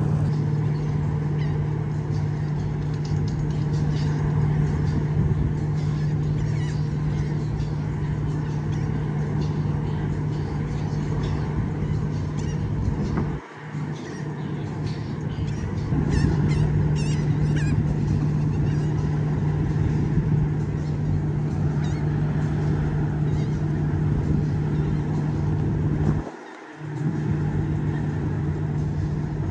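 Cruise ship's horn sounding long, steady low blasts, with two brief breaks about thirteen and twenty-six seconds in.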